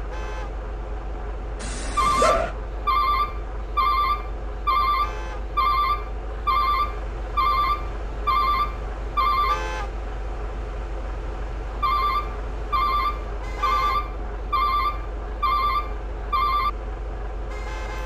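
Heavy truck's engine running steadily under a repeating electronic beep, about one beep a second, in two runs with a pause between. There is a short hiss about two seconds in and a few brief louder blasts.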